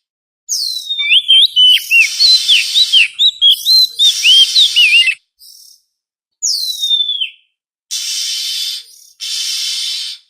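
Oriental magpie-robin singing: a quick run of clear whistled notes sliding up and down, then a long falling whistle. Between and after the phrases come harsh rasping notes about a second long each, the last two near the end.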